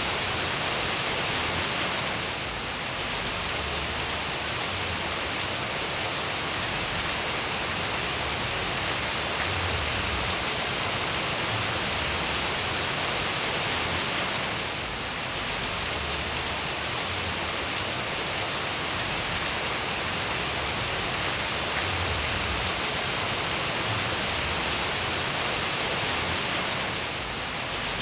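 Steady rain falling, a dense even hiss with the most energy in the high end. It dips briefly in level about every twelve seconds.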